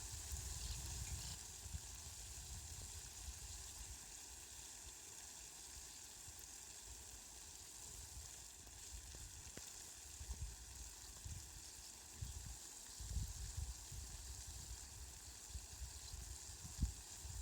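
Rain falling steadily, a faint even hiss, with low rumbles coming and going, more of them in the second half.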